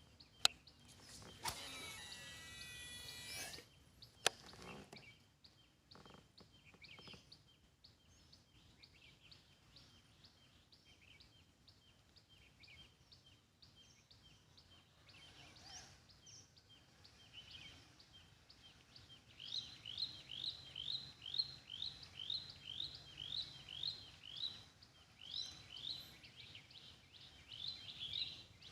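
Birds calling with short repeated chirps; from about two-thirds of the way through, one bird repeats a short rising note about twice a second. Near the start, a two-second whir sits between two sharp clicks.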